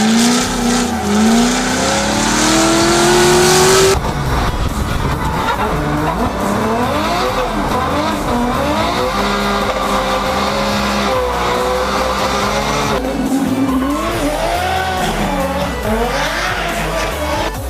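Drift cars' engines revving up and down hard, with tyres squealing as the cars slide. It is a run of separate clips that changes abruptly about four seconds in and again near thirteen seconds.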